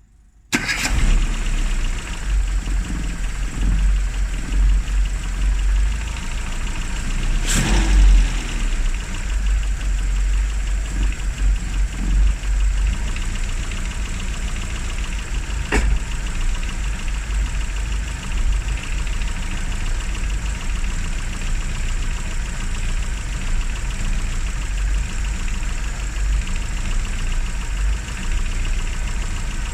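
Classic Mini's four-cylinder engine running steadily at idle with a deep rumble. The sound comes in abruptly about half a second in, with a single sharp click about halfway through.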